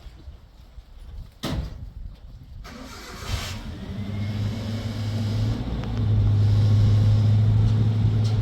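A sharp knock, then an engine starting about three seconds in and settling into a steady low running hum that grows louder about six seconds in.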